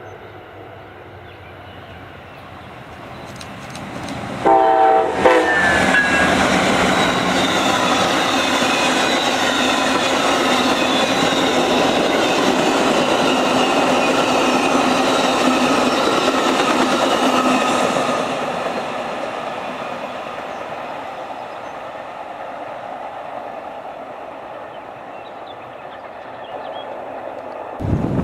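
A train passing close by: a short horn blast about four and a half seconds in, then loud wheel-on-rail running noise for about thirteen seconds, which then fades away.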